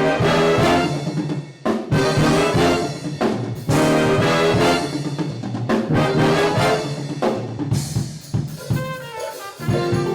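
Student band playing loud brass chords in short, punchy phrases over a drum kit, in a jazzy style.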